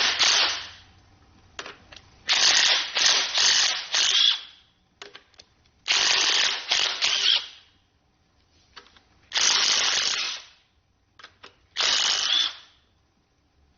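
Pneumatic wrench on an engine block, run in four short bursts of one to two seconds each with a rapid rattle, with a few light tool clicks between them.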